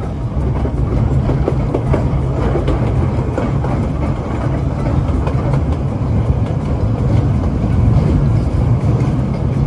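Kurobe Gorge Railway narrow-gauge sightseeing train running along the line: a loud, steady low rumble of wheels on rails and the running train.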